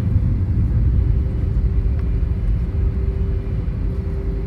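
Airbus A320 cabin noise while taxiing: a steady low rumble from the engines at idle and the rolling gear, with a steady hum over it and a faint click about two seconds in.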